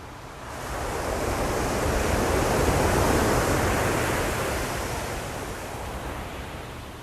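Ocean wave breaking on the shore: the surf noise swells over about two seconds, peaks, then washes out and fades.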